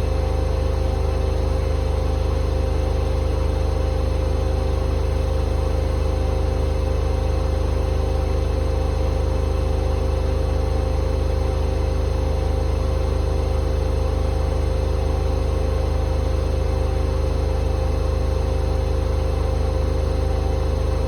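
Hoover H-Wash 500 washing machine on a spin-only cycle set to 1600 rpm, its drum spinning at high speed with a steady low hum and whine that holds unchanged.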